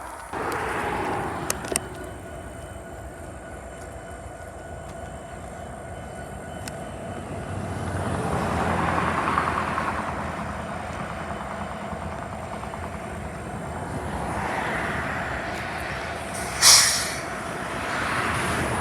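A train rolling past, its steady rumble swelling and easing several times as the cars go by. About three-quarters of the way through comes a short, sharp hiss, the loudest moment.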